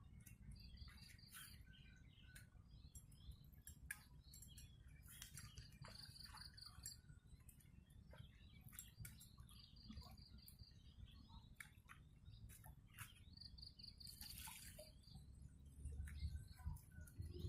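Faint outdoor ambience: a short, rapid, high-pitched trill from a small calling creature, repeated every couple of seconds over a low rumble.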